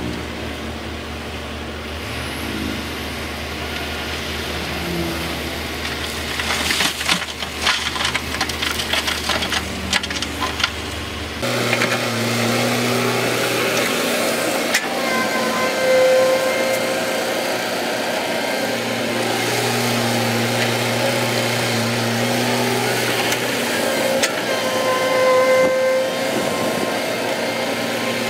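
Diesel engines of heavy earthmoving machinery. A steady low engine hum comes first, with a stretch of rapid clattering partway through. After an abrupt change, an engine works under load, its pitch rising and falling in repeated cycles.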